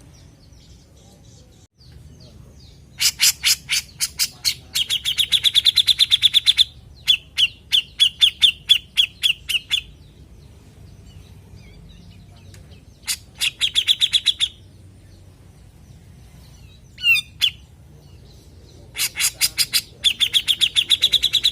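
Cucak jenggot (grey-cheeked bulbul) calling in bouts of rapid, evenly repeated sharp notes, several a second. There are four bouts of a few seconds each, with one short call in between.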